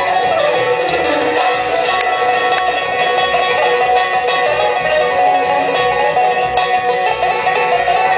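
A bluegrass string band playing a fast instrumental, with the banjo prominent over other plucked and bowed strings, including some sliding notes.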